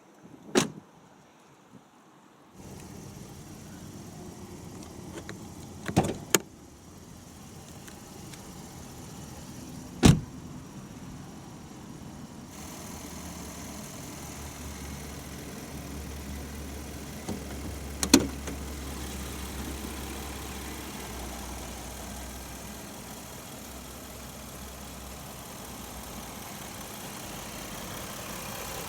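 Several heavy car-door thuds on a 2018 Land Rover Discovery 5: five in all, two in quick succession about six seconds in, the loudest about ten seconds in. A steady low hum runs underneath from about three seconds in.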